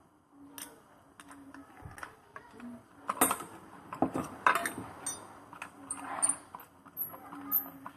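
Metal tools and parts being handled, giving irregular light metallic clicks and taps with a few louder knocks in the middle and short high squeaks near the end.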